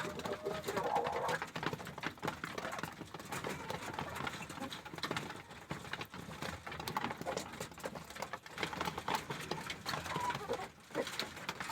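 Poultry pecking at feed, many rapid beak taps on the feeder, with a few short clucking calls from the flock.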